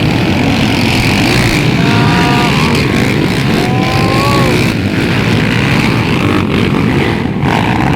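Several underbone motorcycles racing on a motocross track, their small engines running loudly at high revs.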